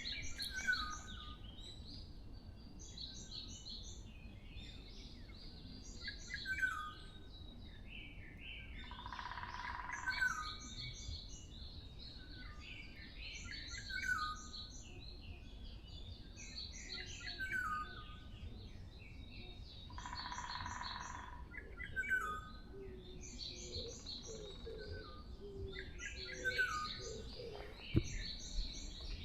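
Forest birdsong: one bird repeats a short song about every three and a half seconds, a quick run of high notes falling into a lower trill. Twice, about a third and two-thirds of the way in, a rougher sound lasting about a second and a half rises above it.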